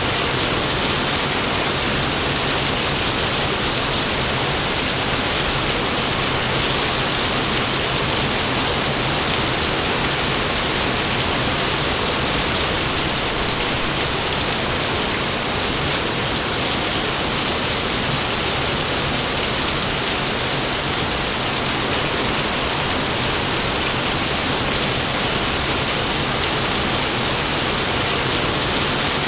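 Heavy rain pouring steadily, a dense even hiss with no thunder or other sudden sounds.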